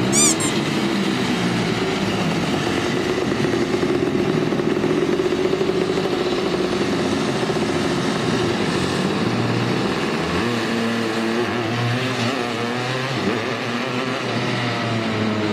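Small petrol engine of a miniature car running steadily, its pitch rising and falling in the second half as it revs.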